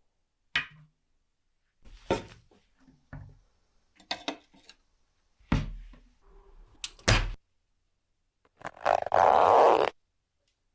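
Several sharp knocks and clicks of hard objects being handled and set down, some in quick pairs. Then, near the end, a loud rush of noise lasting about a second, which stops abruptly.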